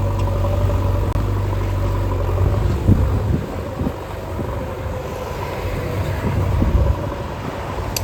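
Diesel engine of heavy construction machinery running as a steady low drone. About three seconds in, after a short knock, the drone weakens and the engine sound goes on quieter and rougher.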